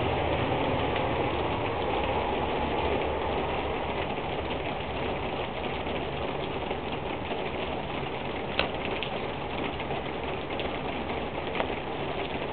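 Steady rain falling, a dense hiss with scattered drip ticks, picked up by a poor-quality camera microphone. One sharp tap stands out about eight and a half seconds in, with a smaller one near the end.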